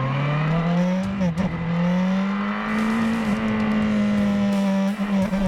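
Motorcycle engine revving hard under acceleration, its pitch rising. The pitch dips briefly about a second and a half in, then climbs and holds high until it falls away near the end.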